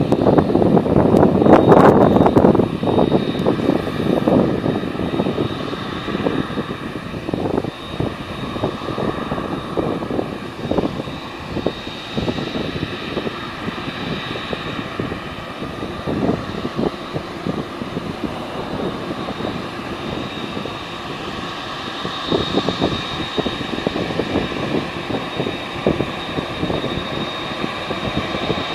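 Boeing 787-9 Dreamliner's turbofan engines running at taxi power: a steady high whine over a rushing rumble, loudest in the first couple of seconds.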